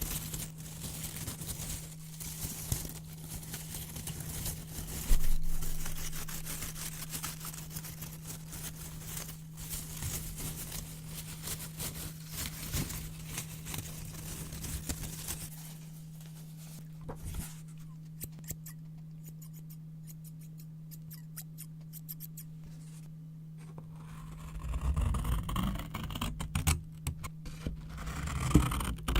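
Scissors cutting brown paper: a dense run of crisp snips and paper crackle, with one sharp louder snap about five seconds in. The cutting goes quiet about halfway through, leaving a steady low hum, and paper rustling and handling pick up again near the end.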